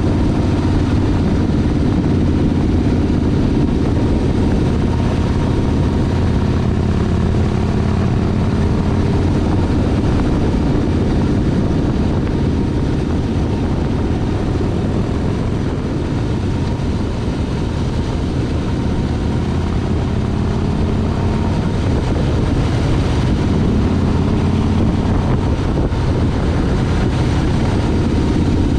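Motorcycle engine running steadily under way, its pitch shifting a little with the throttle.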